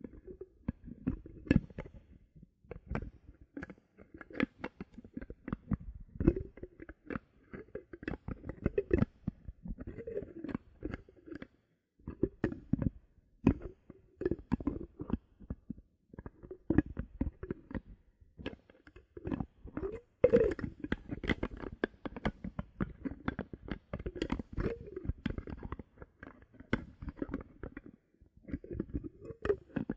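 Bottle caps handled close to the microphone for ASMR: a dense, irregular run of clicks, taps and hollow knocks, with a few short pauses.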